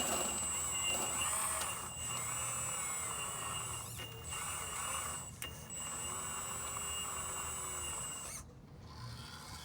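Radio-controlled Magom HRC 330D CAT hydraulic excavator model's electric pump whining steadily with a high-pitched tone, dipping briefly a few times as it works, then stopping about a second before the end.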